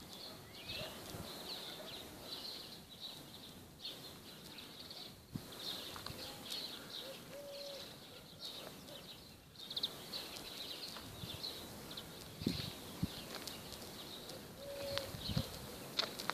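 Small birds chirping and twittering continuously, with a few sharp knocks in the second half.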